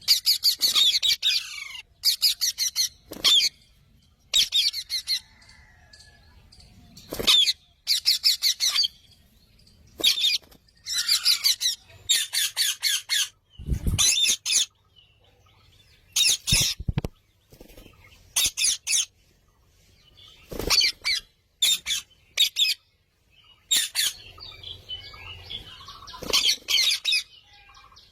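Parrots calling in short, rapid bursts of high chirps and squawks, each phrase about a second long and repeated with brief pauses, with a few dull thumps midway.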